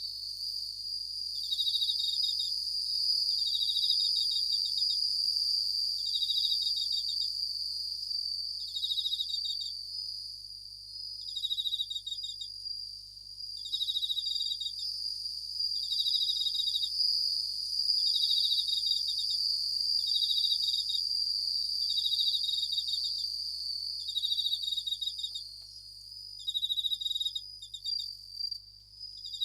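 Japanese bell crickets (suzumushi) singing: short trills of rapid pulses, each about a second long, repeating about every two seconds over a steady high-pitched trill.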